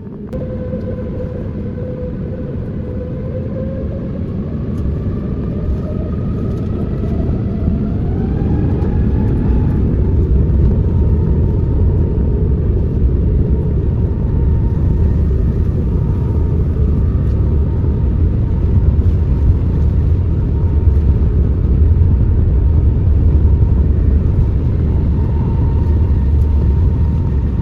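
Airbus A350 on its takeoff roll. The Rolls-Royce Trent XWB turbofans spool up with a whine that rises in pitch over the first ten seconds, under a low rumble that builds and then holds steady and heavy.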